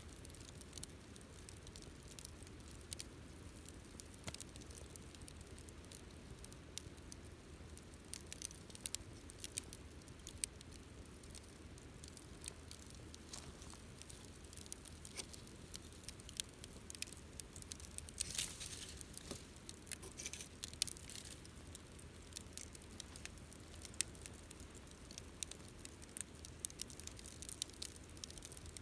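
Wood campfire crackling, with many small, irregular sharp pops and snaps and a denser spell of crackling about two-thirds of the way through.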